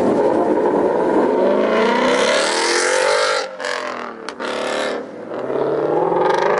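Car engine revving hard as the car accelerates away, the pitch climbing. There are two short breaks about halfway through, then it climbs again.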